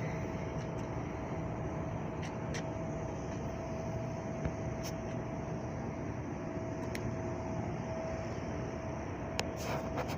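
Air-conditioning outdoor condenser units running: a steady mechanical hum with a constant whine, and a few light clicks near the end.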